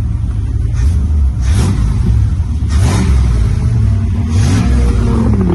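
Big-block V8 (457 cubic inches) of a 1966 Batmobile replica being revved while parked: three blips of the throttle, each rising and falling in pitch, then dropping back to a steady idle near the end.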